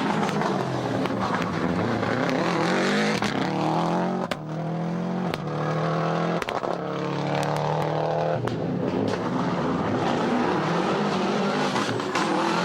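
Subaru Impreza GC8 rally car's flat-four boxer engine revving hard. Its pitch climbs twice, each climb cut off by a sharp crack at the gear change, then falls away, with tyre noise throughout.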